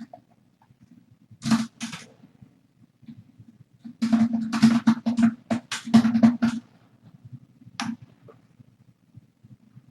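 Bursts of sharp knocking and clattering: two knocks, then a quick run of about a dozen, then a single one near the end.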